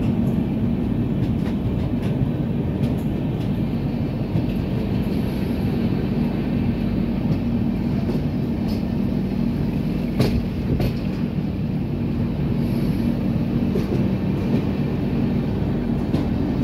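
Electric passenger train running along the track, heard from the open side of a moving coach: a steady rumble of wheels on rail with a low hum, and scattered sharp clicks, the loudest about ten seconds in.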